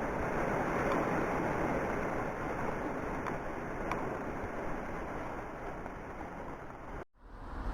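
Steady rushing noise that cuts off abruptly about seven seconds in.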